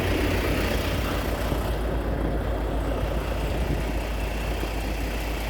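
Steady engine and cabin noise inside a car, a constant low rumble with an even hiss over it.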